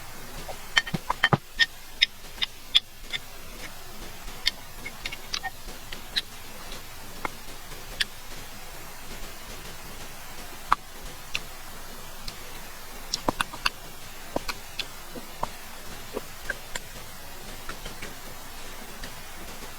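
Close-miked eating sounds: irregular sharp clicks and smacks of chewing, coming in clusters with short pauses between.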